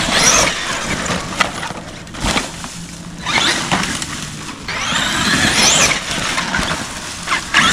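Traxxas Xmaxx RC monster truck driving in short bursts, its electric motor whine rising and falling, with the crunch of tyres over the ground.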